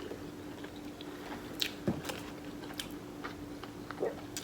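A person chewing and biting food close to the microphone, with several sharp crunchy clicks spread through it. A steady low hum runs underneath.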